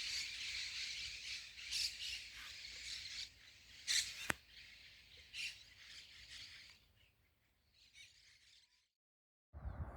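Small birds chirping in the riverside trees, with a sharp click about four seconds in; the chirping fades out about seven seconds in.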